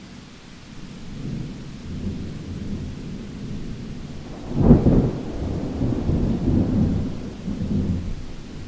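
Thunderstorm: a low rumble of thunder builds, breaks into a sharp, loud crack about halfway through, then rolls on and fades, over steady rain.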